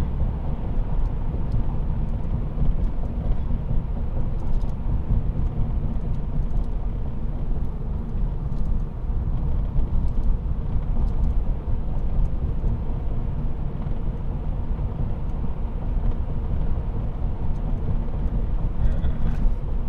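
Steady low rumble of a car driving at road speed through a long road tunnel, with tyre and engine noise heard from inside the cabin.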